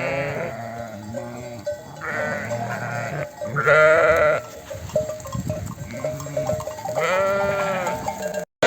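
A flock of sheep bleating, with several overlapping calls. Louder bleats come about two, four and seven seconds in.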